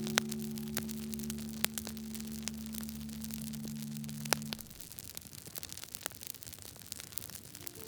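Wood fire crackling, with irregular sharp pops and snaps over a soft hiss. A low held musical chord sounds under it for the first half and stops about four and a half seconds in.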